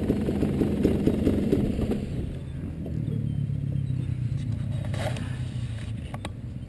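Dirt bike engine running, rough and strong at first, then easing off about two seconds in to a lower, steady note. A few sharp clicks or knocks come near the end.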